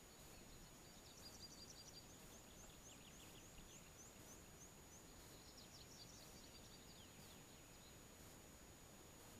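Near silence with faint birdsong: quick series of high notes from a small songbird, one phrase from about a second in and another around six seconds in. A faint steady high-pitched tone runs under it.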